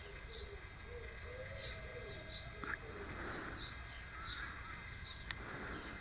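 Birds calling: a low, repeated phrase of rising-and-falling notes with short high chirps over it, and a sharp click about five seconds in.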